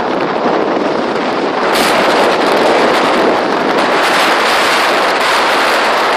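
Steady rushing noise of wind buffeting the microphone, mixed with rushing water, as from a boat under way; it grows a little louder about two seconds in.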